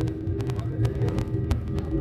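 Airliner noise during takeoff: a steady low engine rumble with a held hum, over many short clicks and rattles.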